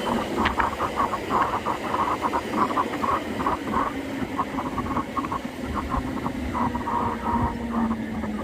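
Motorcycle riding at highway speed: wind rushing and buffeting over the microphone, with the engine running steadily underneath.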